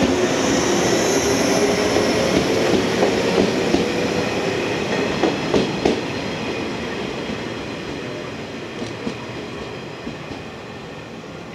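Yellow JR West 115-series electric train moving off, its running noise fading steadily as it draws away. A few sharp wheel clacks over rail joints come around the middle.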